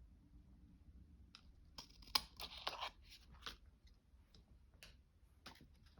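Faint paper rustling and crinkling as paper is handled, busiest about two to three and a half seconds in, with a few light clicks near the end.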